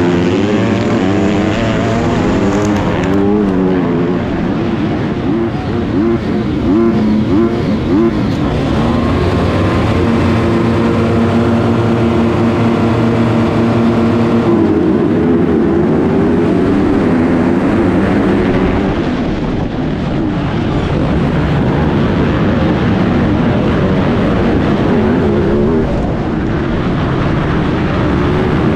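MX2 motocross bike engine heard from an onboard action camera, revving up and easing off again and again as the rider works the throttle and gears, with a longer steady high-revving stretch about the middle that drops away suddenly.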